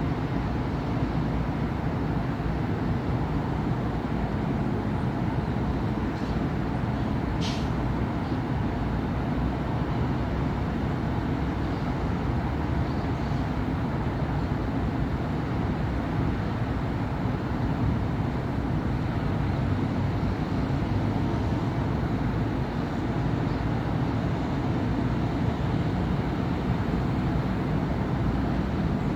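Steady city road traffic: cars and buses passing in a continuous din, with a brief high squeak about seven seconds in.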